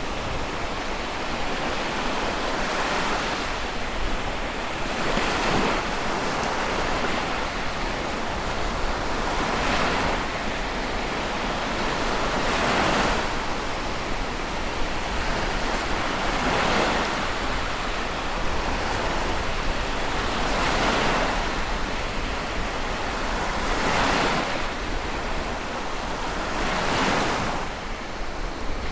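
Sea waves breaking and washing in, one swell of surf every three to four seconds over a steady rush of water, with some wind noise.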